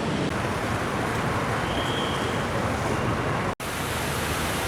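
Steady loud rushing noise, cut off for an instant about three and a half seconds in where one short clip ends and the next begins.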